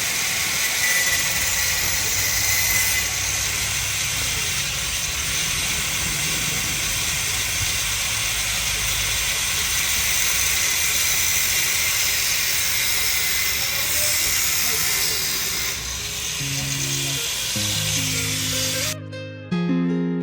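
Steady loud hiss of a high-pressure spray working on the car. Strummed acoustic guitar music fades in about three quarters of the way through and takes over near the end.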